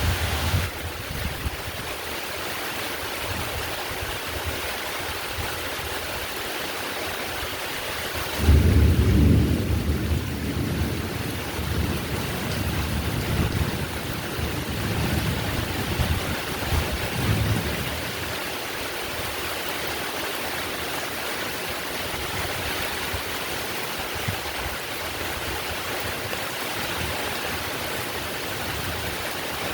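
Heavy steady rain, with a roll of thunder breaking in about eight seconds in and rumbling on in waves for around ten seconds before fading back to the rain alone.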